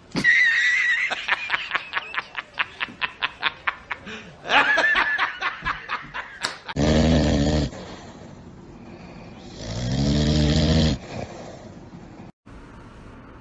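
A person laughing hard in a quick run of short 'ha' bursts that fade over the first few seconds. Two longer, louder noisy sounds follow, one about seven seconds in and one about ten seconds in.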